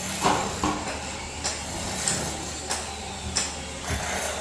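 Construction work: irregular sharp knocks, about one every half second to second, from demolition and breaking work, over a steady low machine hum.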